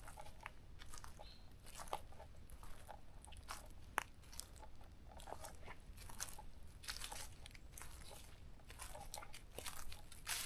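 Footsteps crunching on a dry forest trail at a walking pace, about one step a second, with a sharp snap about four seconds in.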